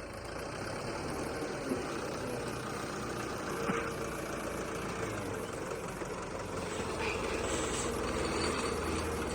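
An engine running steadily with a low hum, with a couple of faint knocks.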